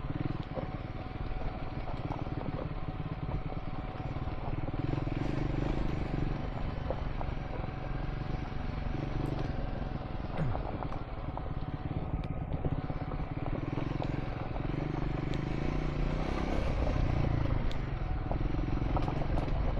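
Triumph Scrambler 400 X's single-cylinder engine running under way, its pitch rising and falling as the revs change, with scattered small clicks and knocks.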